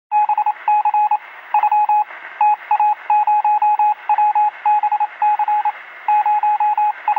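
Electronic beeping in short and long beeps of one steady pitch, sent in irregular groups like Morse code, over a steady radio-style static hiss.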